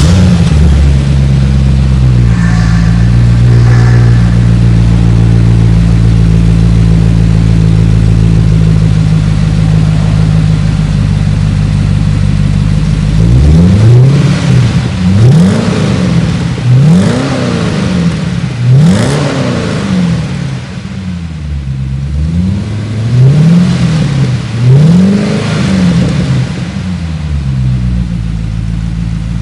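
Corvette C6 V8 through an aftermarket GT exhaust system, idling steadily. About halfway through it is revved in a series of about six quick blips, each rising and falling in pitch, then it settles back to idle.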